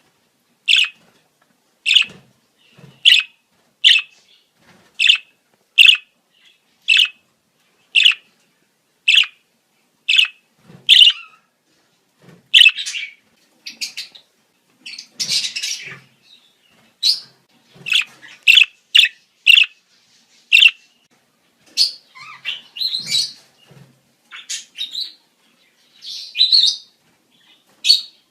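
Budgerigar breeding-season calls: short, sharp chirps about once a second, then a longer burst of chatter about halfway through and quicker, more varied chirps toward the end.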